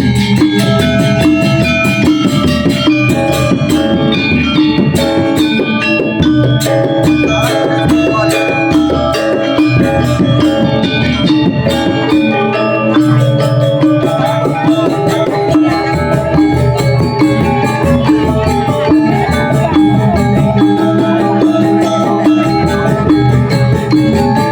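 Balinese gamelan gong ensemble playing a tabuh alus, a refined instrumental piece: bronze metallophones ring in quick, dense runs of struck notes over sustained low gong tones and drumming.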